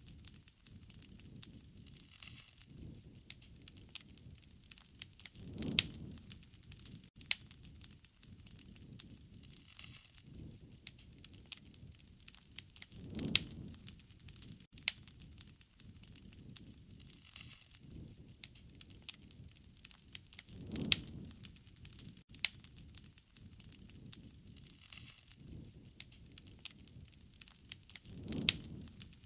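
Wood fire burning, with many sharp crackles and pops and a low rush of flame that swells about every seven and a half seconds.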